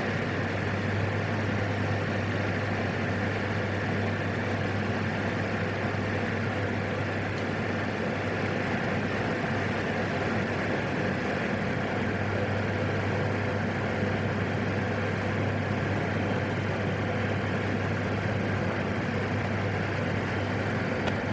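Steady drone of a PAC 750 single-engine turboprop heard in the cockpit, with a constant low hum and an even rushing noise that does not change.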